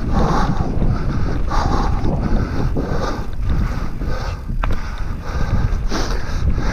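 Wind buffeting the microphone with a loud, steady rumble while a mountain bike is ridden on a trail, swelling roughly every second and a half.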